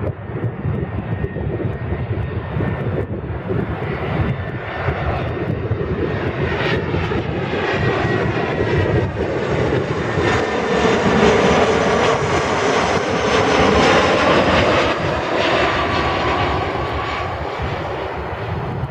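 Airbus A318 jet airliner landing, its engine noise building as it comes closer, loudest about two-thirds of the way through, then easing as it passes, with sweeping shifts in tone.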